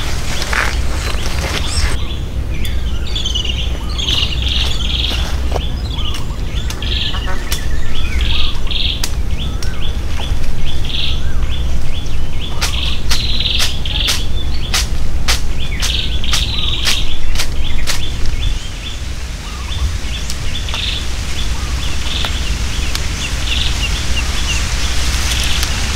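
Forest birds chirping in short repeated calls, over a steady low rumble. About halfway through comes a run of sharp knocks, several a second for some six seconds.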